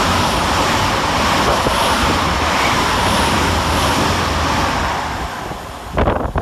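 LNER Class 800 Azuma bi-mode train passing through at speed on its underfloor diesel engines: a loud steady rush of engine and wheel noise with a low hum, dying away about five seconds in. Wind buffets the microphone near the end.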